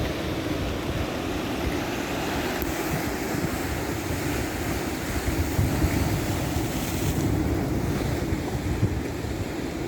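Ocean waves surging and washing on the shore in a steady rush, swelling a little about halfway through, with wind buffeting the microphone.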